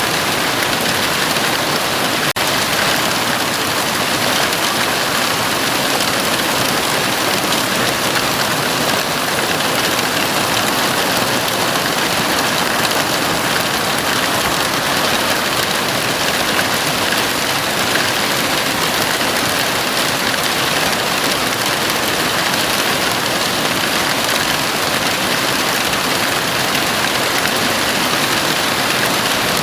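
Heavy rain falling steadily on a house roof: an even, unbroken hiss of dense drops, with a momentary dropout about two seconds in.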